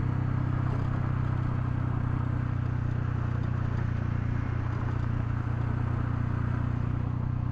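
Honda CL250 motorcycle engine running at a steady, even speed while riding, with a constant rush of wind and road noise over it.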